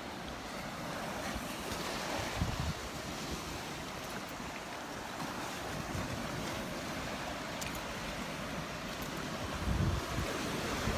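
Gulf of Mexico surf washing onto a sandy beach, a steady rush of breaking waves, with wind buffeting the microphone in low gusts about two seconds in and again near the end.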